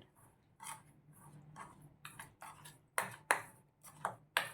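A spoon stirring ground biscuit powder and milk into a thick mixture, with soft scraping strokes and, from about three seconds in, a few sharper clinks of the spoon against the container.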